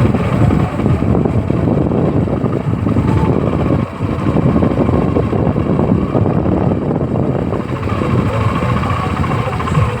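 Tractor diesel engine running steadily with a dense low rumble, dipping briefly about four seconds in.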